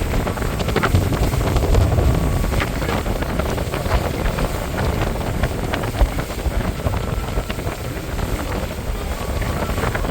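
Wind buffeting the microphone aboard a moving boat: a steady low rumble with scattered sharp crackles, over the boat's motor and the water.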